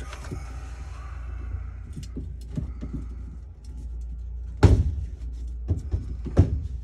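Handling noises while wiring the water heater's electrical box: scattered small clicks and clinks, with two louder knocks a little past the middle and near the end, over a steady low hum.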